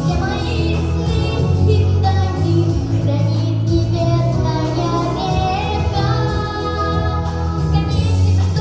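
A young girl singing a pop song over a backing track with a steady bass line.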